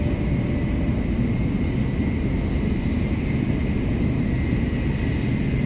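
Steady running noise of a Shinkansen train heard inside the passenger cabin: an even low rumble with a thin, steady high tone above it.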